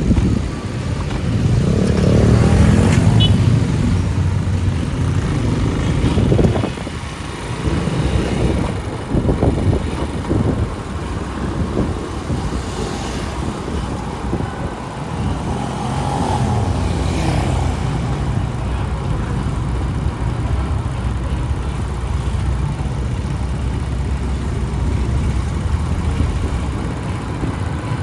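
Motorcycle running through busy city street traffic, a steady low engine and road rumble with other vehicles passing now and then.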